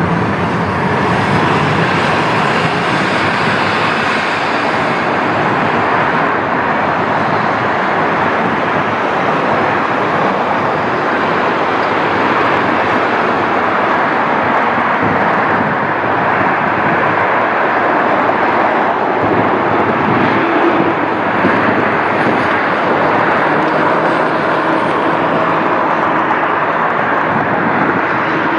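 Jet airliner engines running at close range: a loud, steady rush of noise that holds level, with a faint high whine wavering in pitch through the middle.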